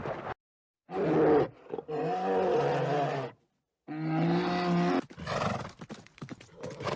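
An animal giving three long, pitched, drawn-out calls with short silent breaks between them, followed in the last two seconds by a run of crackling and clicking.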